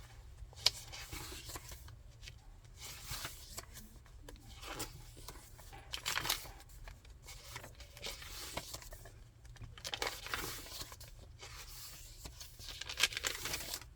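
Pages of a thick handmade junk journal being turned and handled: irregular paper rustling and crinkling, with a sharp click under a second in and louder flurries of page-turning near the middle and end.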